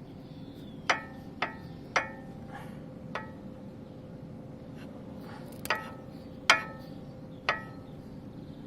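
Sharp metallic knocks with a brief ring from a vehicle's wheels, about seven at irregular intervals, over steady rolling noise. The knock is a fault whose cause the owner cannot explain.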